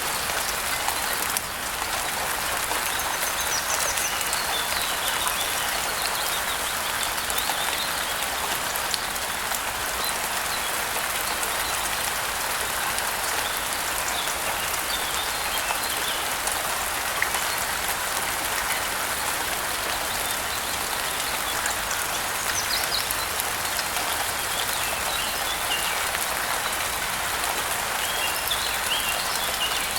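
Steady rainfall, an even hiss of drops falling on surfaces, with faint short bird chirps now and then above it.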